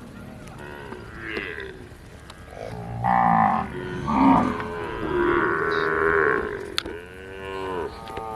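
Kankrej cows mooing: several long, pitched calls follow one another and overlap, loudest in the middle. A short sharp click comes near the end.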